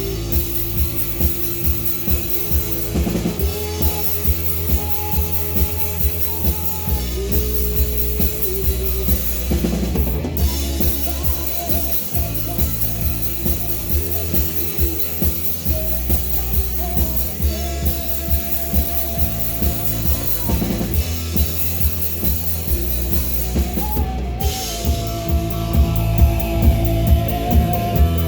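Live rock band playing: a drum kit keeps a steady beat of about two hits a second under bass and guitars, with held melodic lines on top.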